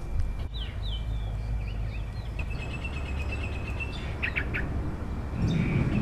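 Small birds chirping outdoors: short quick chirps, a thin high trill lasting a second or two, and a few rapid notes, over a steady low rumble. A louder low noise starts near the end.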